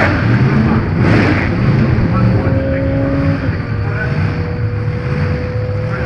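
Motorcycle engine running steadily at a drag strip, with a short rush of noise about a second in.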